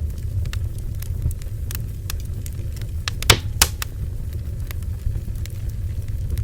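Bonfire burning: a steady low rumble with scattered crackles and sharp pops of burning wood. There are two loud pops about halfway through.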